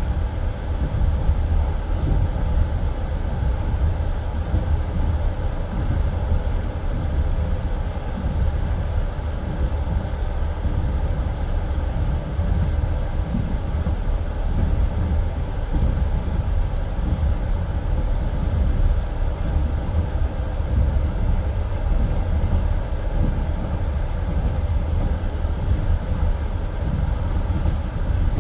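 Passenger train running along the line, heard from inside the carriage: a steady, loud rumble of wheels on rails and the rolling car.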